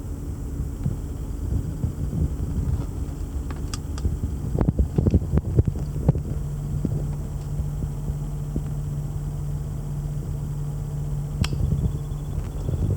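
Supercharged V8 of a 2006 Range Rover Sport idling after a cold start, a steady low hum. A few knocks and clicks come about four to six seconds in, and a steady low tone joins the idle just after them.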